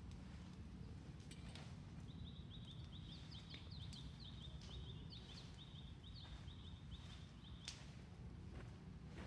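Faint outdoor background with a bird giving a rapid series of short, high chirps, about four or five a second, for several seconds from about two seconds in. A few sharp clicks are scattered through it, the loudest near the end.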